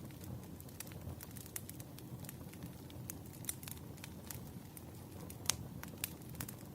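Wood fire crackling, with irregular sharp pops over a low steady rumble; one louder pop about five and a half seconds in.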